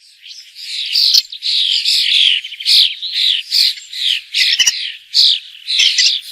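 A bird calling continuously: a quick, unbroken run of short, high-pitched calls, about two a second.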